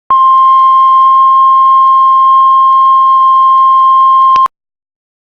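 Heart monitor flatline: one continuous steady beep that holds for about four and a half seconds and then cuts off abruptly. The unbroken tone is the monitor's sign that the heart has stopped.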